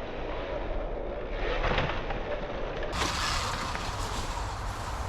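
Sur Ron X electric dirt bike riding a dirt trail: a steady rough rolling and rattling noise from the tyres and bike, with a louder burst of clatter about a second and a half in.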